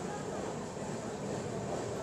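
Express passenger train pulling out of a station, heard from the open coach doorway: a steady running noise of the coaches and wheels on the rails.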